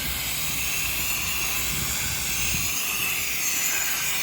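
Soft-wash hose nozzle spraying diluted chlorine (sodium hypochlorite) solution onto a house wall: a steady, unbroken hiss over a low hum.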